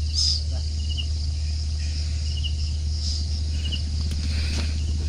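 Insects chirping, with a short high chirp repeating about every second and a half over a steady insect drone. A strong steady low hum runs underneath.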